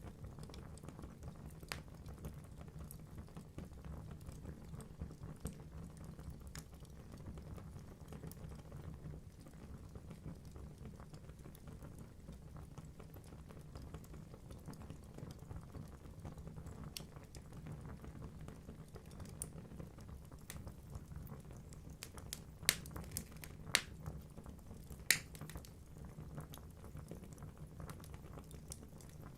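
Wood logs burning in a fireplace: a steady low rumble of flames with scattered small crackles, and three louder sharp pops in quick succession about three-quarters of the way through.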